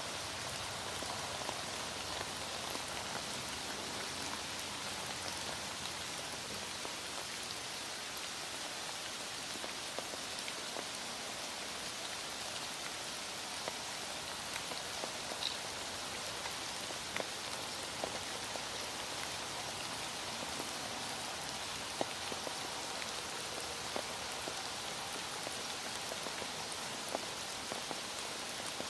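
Heavy rain falling steadily, with scattered drops ticking sharply through the hiss.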